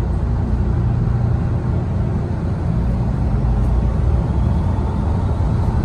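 Steady low rumble of a moving vehicle heard from inside it.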